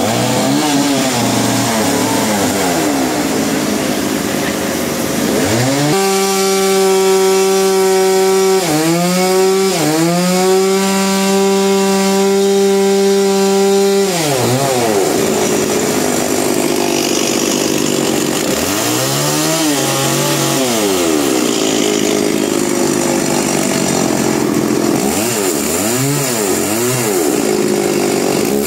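Two-stroke chainsaw revved up and down in throttle blips, then held at full throttle for about eight seconds with two brief dips, as when cutting. More short rev-ups follow near the end.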